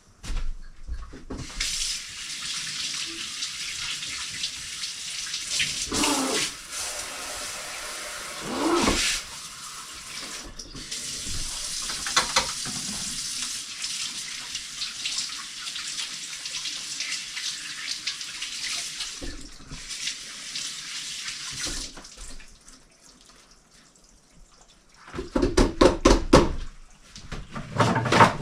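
Water running steadily for about twenty seconds, like a tap or hose, then stopping. A cluster of loud thumps follows near the end.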